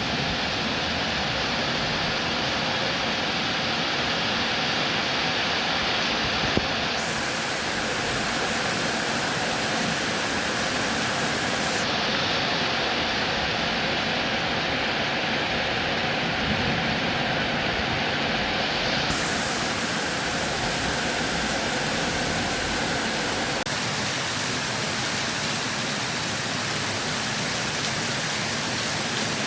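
Steady heavy rain, a dense even hiss with no separate drops standing out. The highest treble cuts in and out abruptly a few times, and a single sharp tick comes about six and a half seconds in.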